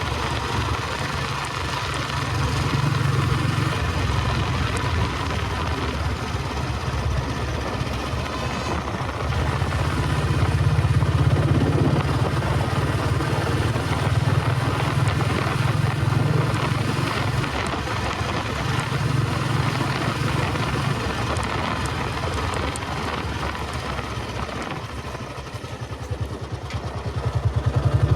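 Royal Enfield Bullet 350 Electra's single-cylinder cast-iron engine thumping along under way, its level swelling and easing with the throttle. Near the end it drops off briefly, then picks up again with the separate beats of its firing plainly spaced out.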